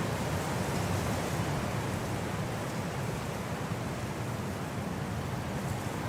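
Winter wind blowing, a steady low rushing without gusts or breaks.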